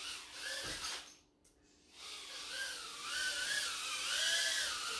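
Tiny whoop quadcopter's 19000kv brushless motors and props whining. About a second in there is a knock and the whine cuts almost to nothing, then spools back up about two seconds in, its pitch rising and falling with the throttle.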